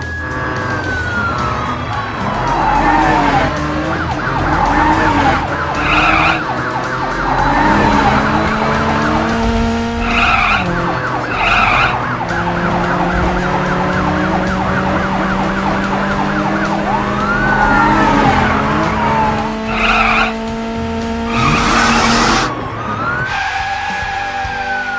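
Cartoon soundtrack of toy-car sound effects over background music: a police siren wailing up and down a few times, with engine and tyre-skid effects.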